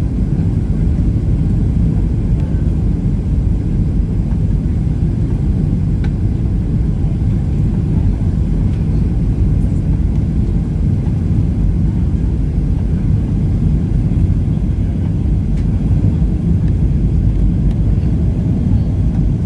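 Steady low rumble of a Boeing 737-800's engines and airflow heard inside the passenger cabin, with no sharp changes.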